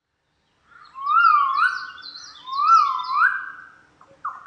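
Spiny-cheeked honeyeater calling: two liquid whistled phrases, each sliding up and down, followed near the end by a few short downward-slurred notes.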